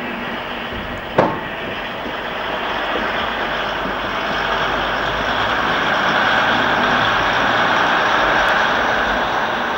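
Diesel train running on the line, its rumble swelling to a peak about six to eight seconds in, with a single sharp knock about a second in.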